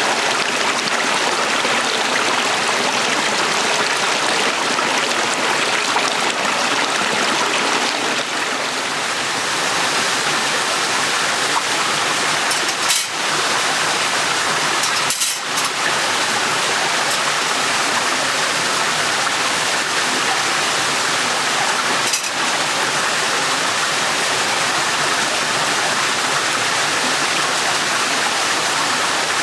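Small stream running steadily over stones, a constant rushing babble. A few brief clicks sound over it, around the middle and again about three-quarters through.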